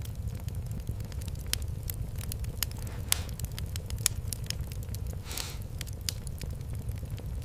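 Wood fire crackling: scattered sharp pops over a steady low rumble, with two brief hisses about three and five seconds in.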